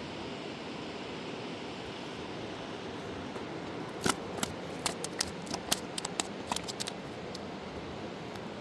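Steady rush of a fast-flowing river, with a run of about a dozen sharp clicks in the middle that come in quick, uneven succession.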